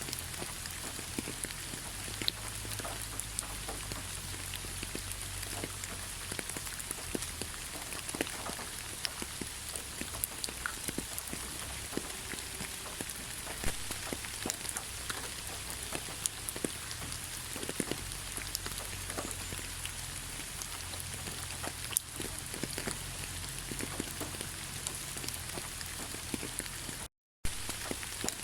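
Heavy rain falling steadily: a dense hiss with many individual drops pattering on a surface, over a low rumble. The sound cuts out completely for a moment near the end.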